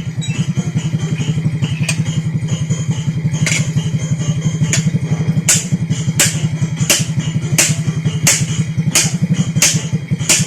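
Upgraded Honda XRM 125 single-cylinder four-stroke engine, fitted with a 4-valve big-valve head, 72 mm cylinder and 32 mm carburettor, idling steadily with a rapid, even pulse. From about three seconds in, sharp clicks repeat roughly every 0.7 s over it.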